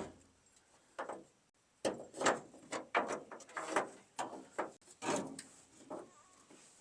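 Steel pickup tailgate being worked onto its bed hinges: a quick, irregular series of short metal clunks and scrapes.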